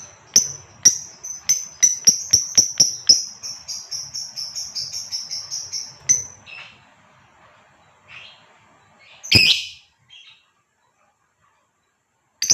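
Female lovebird calling: a rapid series of shrill, sharp chirps that quickens and stops about six seconds in. A few separate calls follow, the loudest about nine seconds in, then a short pause and one more sharp chirp at the end.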